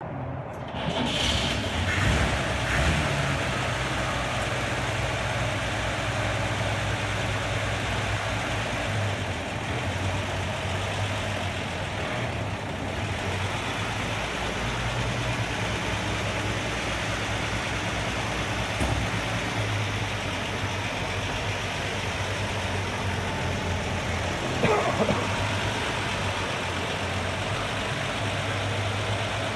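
Chevrolet 216 cubic-inch overhead-valve straight-six in a 1953 Chevrolet 3100 pickup, idling steadily. It is a little louder in the first few seconds, with a brief louder sound near the end.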